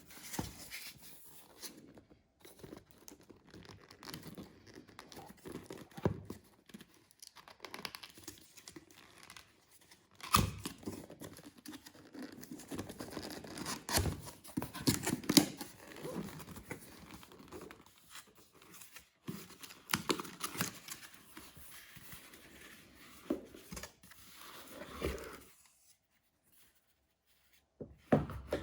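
Packaging being handled and opened: irregular rustling, crinkling and tearing, with scattered clicks and knocks.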